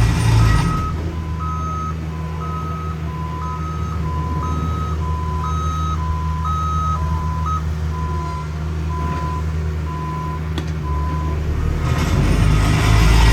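Two back-up alarms on heavy paving equipment beeping out of step, each about once a second, over a diesel engine running. The higher-pitched alarm stops about halfway through, and the engine noise swells near the end.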